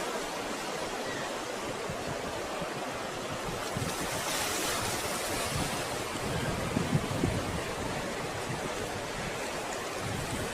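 Ocean surf washing against the shore in a steady rush, swelling as a wave breaks about four seconds in, with a few low thumps a little later.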